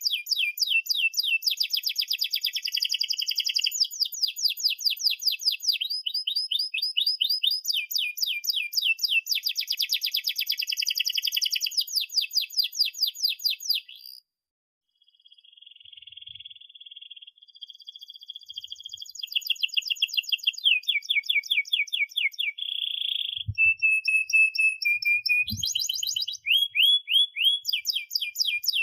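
Domestic canary singing a long, high-pitched song of rapid trilled rolls and chirps. The song breaks off briefly about halfway through, then resumes softly and builds back into fast trills.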